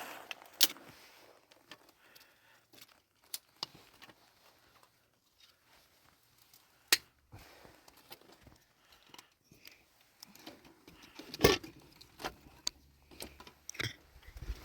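Scattered sharp clicks and knocks of small objects being handled, with quiet gaps between them and one louder knock about eleven seconds in.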